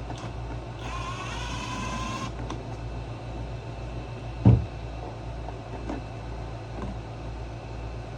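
A cordless drill/driver's small electric motor whines for about a second and a half, rising slightly in pitch, as screws come out of the generator's side plate. About halfway through comes a single loud thump, over a steady low hum.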